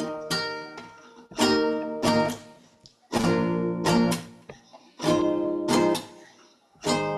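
Acoustic guitar strummed in chords, a strum about every second, each chord ringing out and fading before the next.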